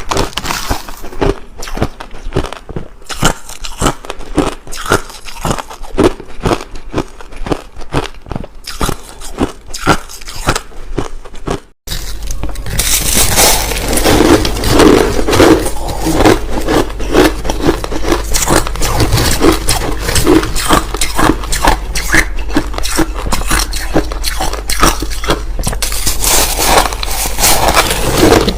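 A person chewing crushed ice, a dense run of crisp crunches close to the microphone. About twelve seconds in, the sound cuts out briefly, then the crunching returns louder over a steady low hum.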